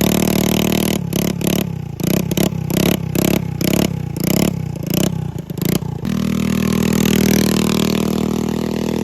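Straight-piped moped engine, loud and open-exhaust, blipped in quick short bursts a few times a second, then held at steady revs from about six seconds in, its pitch easing down near the end.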